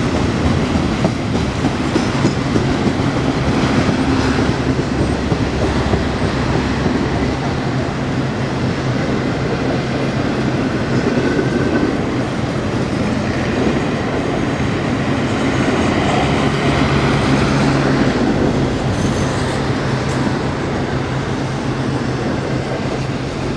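Intermodal freight cars' steel wheels rolling over the rails in a steady clickety-clack, with a few faint, short wheel squeals, easing off near the end as the last cars go by.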